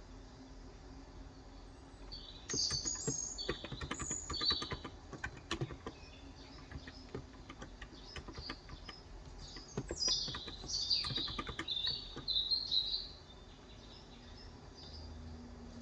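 Small birds chirping and twittering in two bursts, one about two and a half seconds in and another about ten seconds in. Under them come quick keystrokes on a Cox Endeavor tenkeyless electro-capacitive keyboard with 35 g switches.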